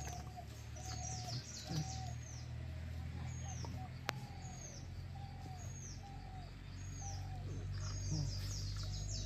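Birds chirping repeatedly, short downward-curving notes coming about once a second, over a low steady background rumble. A single sharp click about four seconds in.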